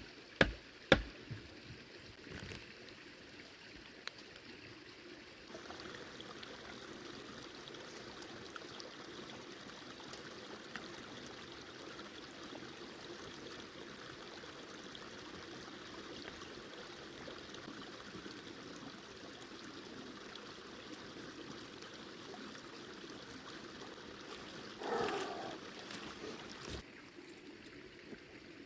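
A few sharp knocks in the first second, then a steady trickling, rushing water sound that starts abruptly about five seconds in and cuts off abruptly near the end, with a brief louder swell just before it stops.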